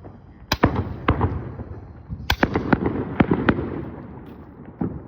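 Consumer fireworks going off in a string of sharp bangs and pops at irregular intervals. The shots cluster between about two and three and a half seconds in, and the crackle fades toward the end.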